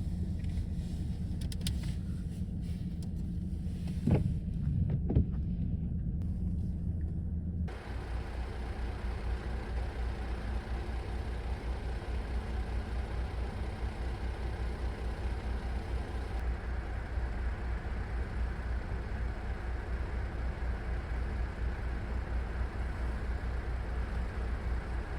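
A car running, most likely heard while driving: a steady low engine hum with a couple of clicks, then, after a sudden change about eight seconds in, an even rushing road noise.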